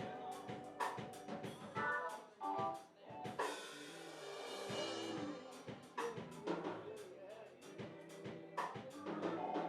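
Live church band playing instrumentally between sung lines of a gospel worship song: a drum kit with snare and kick hits over sustained keyboard chords, with a cymbal swell a few seconds in.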